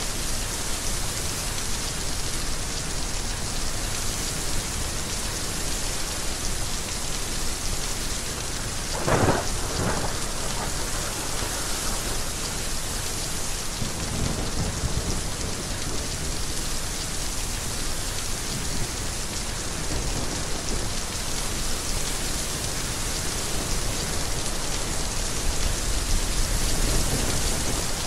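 Heavy rain falling steadily, with a sharp crack of thunder about nine seconds in and low rolls of thunder afterwards, swelling again near the end.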